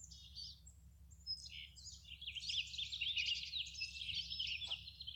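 Tree swallows twittering: a rapid jumble of high chirps that grows busier and louder about two seconds in.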